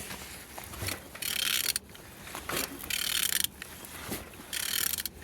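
Engine shaft being turned over by hand, giving three separate spins of about half a second each, with a whirring, ratcheting metallic noise. It turns freely, a check that the engine is not seized.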